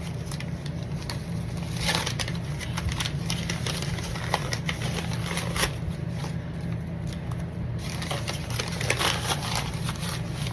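Plastic and paper packaging being handled and unwrapped, with irregular crinkling and rustling, over a steady low hum.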